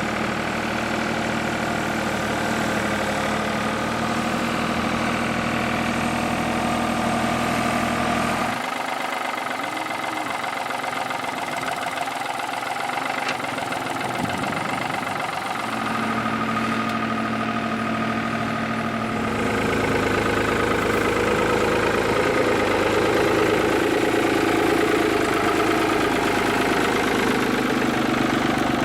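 New Holland TN75 tractor's diesel engine running steadily, its note changing a few times and growing louder about two-thirds of the way through.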